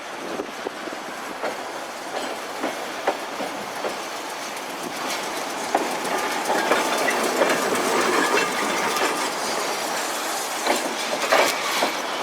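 Streetcar running on street track: wheels clacking over the rail joints with scattered sharp clicks, growing louder about halfway through, with a faint whine from the running gear.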